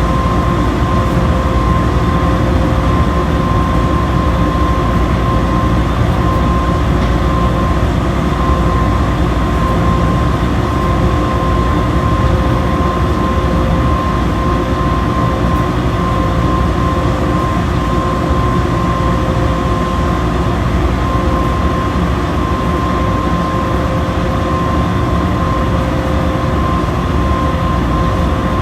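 Washing machine running steadily: a constant motor whine over a heavy rumble of the drum.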